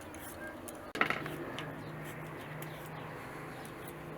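A clatter of metal kitchenware about a second in, followed by a steady low drone.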